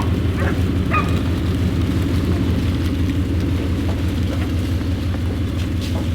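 Heavy diesel engine running steadily under load, a constant low rumble, with a couple of short high chirps about a second in.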